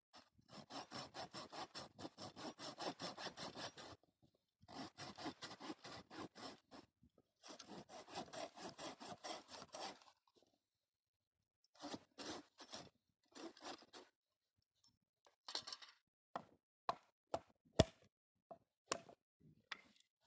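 Hand saw cutting firewood in quick back-and-forth strokes, about six a second, in three long runs. Then comes a stretch of slower, shorter strokes, and near the end a few sharp snaps.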